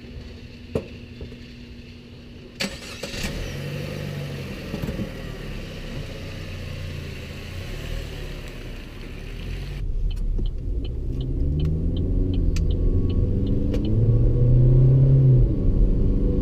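Car being driven, heard from inside the cabin: engine and road rumble, with the engine note rising and falling as it speeds up and slows. In the last few seconds there is a regular ticking, about twice a second.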